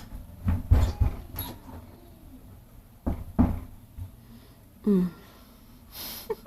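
A person chewing bitter kola nut: a few dull knocks and crunches, with a short hummed 'mm' about five seconds in.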